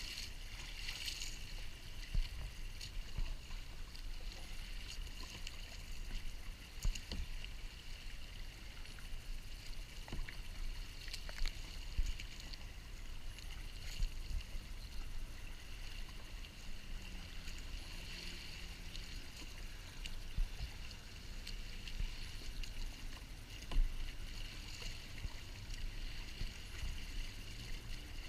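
Water splashing and lapping around a kayak moving on open water, with a sharp knock every few seconds.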